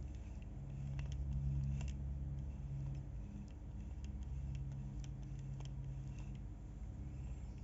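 Tsurinoya 1000-size spinning reel being worked by hand: a low rumble that starts and stops in stretches, with scattered sharp clicks and knocks from the reel's anti-reverse.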